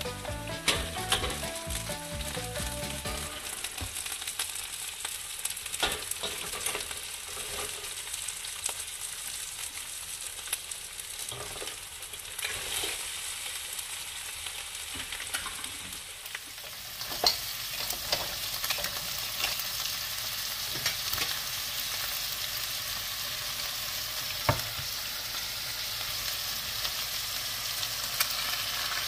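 Crab pieces and garlic frying in oil in a stainless steel wok: a steady sizzle with scattered clicks and knocks against the pan. The sizzle turns brighter and hissier a little past halfway.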